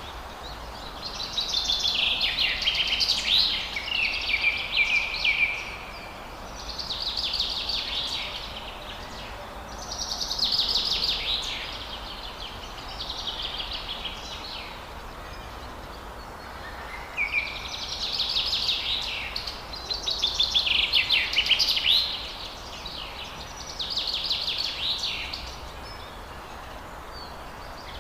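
Forest birds singing: fast trilled song phrases, each one to two seconds long, repeated every few seconds over a steady background hiss.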